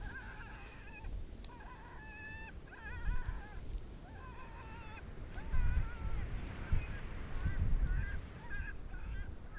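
Electronic predator call playing a coyote locator sound: a long series of short, wavering yips and barks, one after another. Low wind rumble runs underneath.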